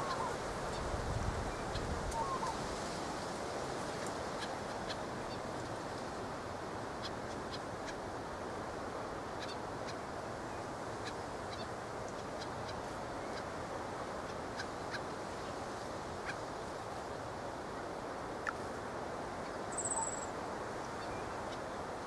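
Scattered faint high chirps of small birds over a steady background hiss, with one brief, high, thin call near the end. A short low rumble sounds about a second in.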